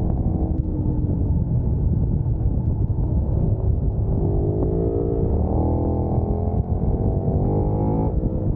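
Large sport motorcycle engine heard while riding, over a heavy steady rumble of wind and road noise. Its pitch falls briefly near the start, then climbs steadily as the bike accelerates for about four seconds before dropping sharply near the end.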